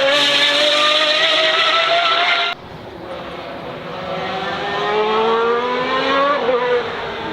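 High-revving racing car engine, loud and held at high revs, then an abrupt switch about two and a half seconds in to another engine accelerating with rising pitch and a gear change near the end.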